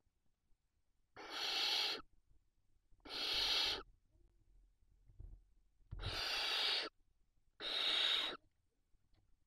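Barn owl hissing: four rasping hisses, each just under a second, spaced a second or two apart.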